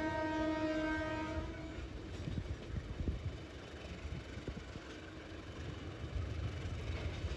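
Train horn sounding one steady note that cuts off about a second and a half in, followed by the rumble and scattered clatter of a freight train of flat wagons rolling past.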